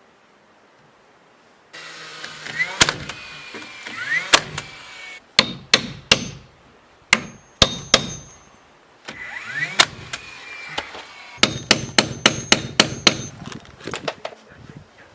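Hammer driving nails into wooden boards: single sharp blows spaced a second or so apart, then a quick run of about ten blows near the end, some with a faint metallic ring. Between the blows there are stretches of steady noise.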